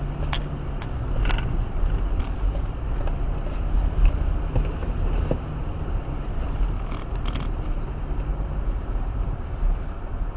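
A car engine running with a steady low drone and rumble, the drone easing off near the end, with a few sharp clicks about seven seconds in.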